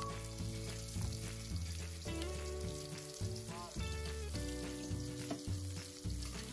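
Ground spice paste with lemongrass and lime leaves sizzling steadily in hot oil in an aluminium wok, being sautéed until fragrant. Background music with sustained notes and a low bass line plays over it.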